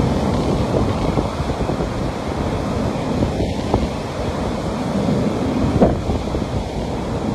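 Sea waves washing and breaking on a beach in a continuous surge, with wind buffeting the microphone.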